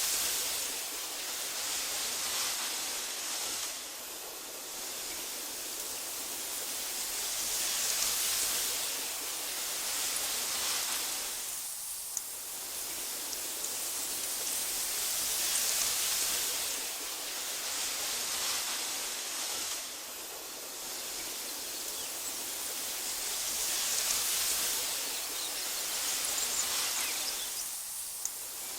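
Wind rustling steadily through tall meadow grass as a soft hiss that swells and eases about every eight seconds.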